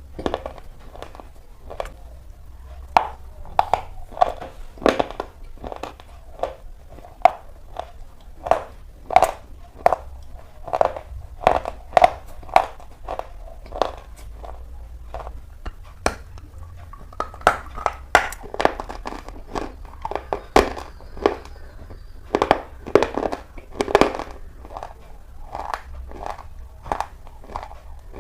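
Slate pencils being bitten and chewed: a long, irregular run of sharp crunches, several a second.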